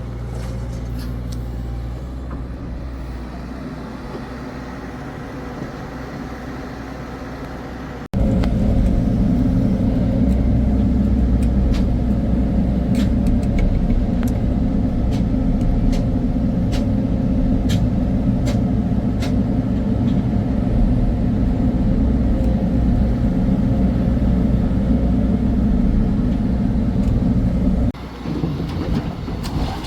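Heavy diesel engines of earthmoving machinery running steadily. About eight seconds in, the sound cuts suddenly to a louder, closer engine that runs on, with scattered sharp clanks. Near the end it drops back to a quieter engine.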